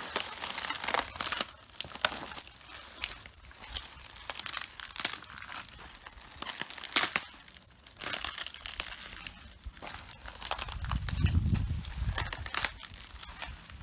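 Red cabbage leaves crunching, crackling and tearing underfoot, in irregular clusters of crisp snaps. About eleven seconds in there is a dull low thud lasting about a second.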